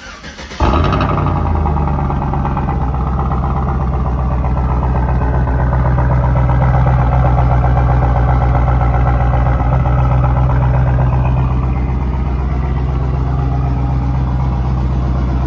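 Chevy Tahoe's V8, fitted with a Texas Speed Stage 2 cam and LS7 lifters and running without a tune, cranks briefly on the starter and catches about half a second in, then idles steadily.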